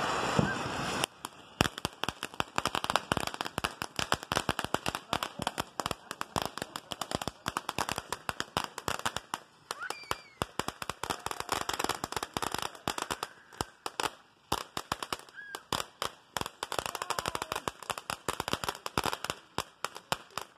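Fireworks going off: a dense hiss for about the first second, then a long run of rapid, irregular crackling pops lasting almost to the end.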